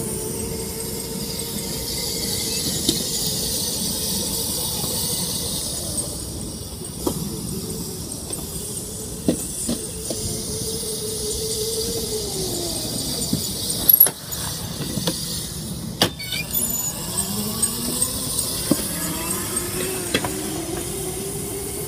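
Razor electric dirt bike's motor and chain drive whining. The pitch drops and climbs again several times as the bike slows and speeds up, with a few sharp knocks and clatters, the loudest about 14 and 16 seconds in.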